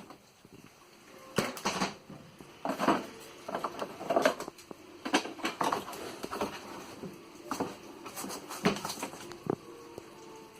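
Tools and plumbing parts being handled and moved about: irregular clinks, knocks and clatter of metal and plastic, some louder than others.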